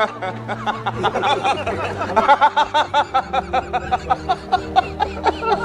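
A person laughing in quick repeated bursts, about five or six a second, over background music with steady low held notes.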